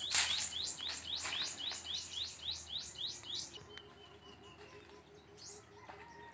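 A bird singing a fast series of short rising notes, about four a second, that stops about three and a half seconds in. A brief knock sounds at the start and another about a second in.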